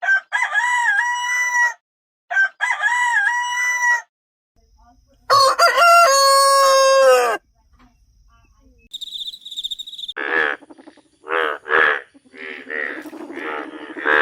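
Rooster crowing three times, each a loud cock-a-doodle-doo of about two seconds, the third lower in pitch. About ten seconds in a different sound follows: a rapid series of short repeated calls.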